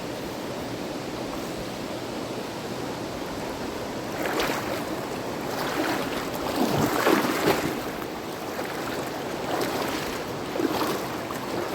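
Steady rush of river water, with irregular splashing from about four seconds in, loudest around seven seconds, and again near the end.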